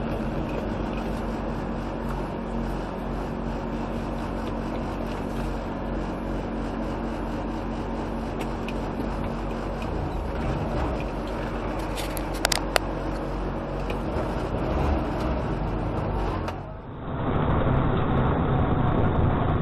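Steady road and engine noise from a moving vehicle, with two short clicks about twelve seconds in. About seventeen seconds in, the sound changes abruptly to a duller road-noise recording.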